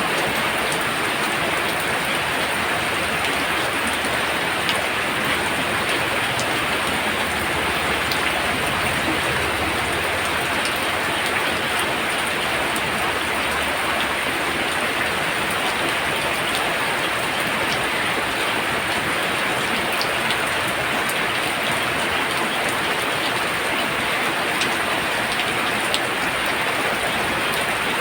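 Heavy rain pouring down steadily, a dense even hiss with scattered individual drop taps.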